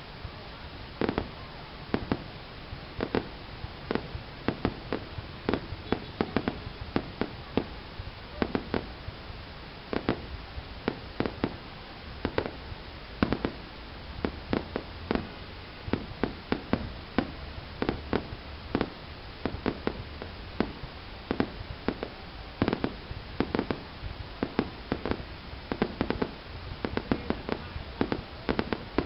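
Fireworks going off in an irregular string of bangs and pops, at times several a second, over steady background noise.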